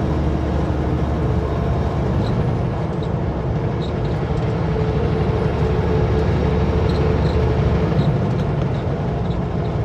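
Kenworth W900L semi-truck's diesel engine and road noise, heard steadily while cruising on the highway.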